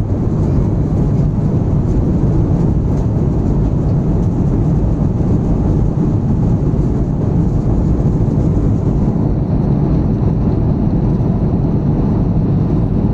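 Airliner cabin noise heard from a passenger seat: a steady, loud rumble of engines and rushing air.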